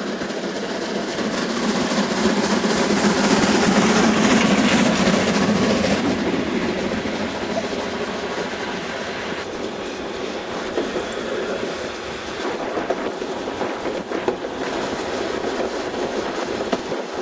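Harz narrow-gauge train running on the rails, wheels clattering over the track. It grows louder a couple of seconds in, then eases off after about six seconds.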